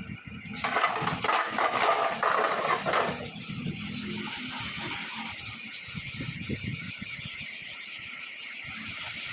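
Paint spray gun hissing steadily as it sprays, fuller and louder for the first few seconds, then a thinner, higher steady hiss.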